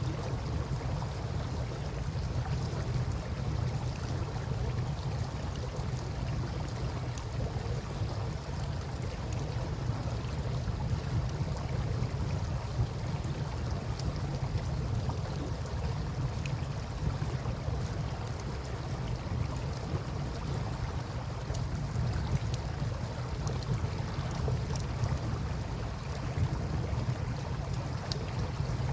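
Steady rush of river water, deepest in the low end, with a few faint crackles from a campfire scattered through it.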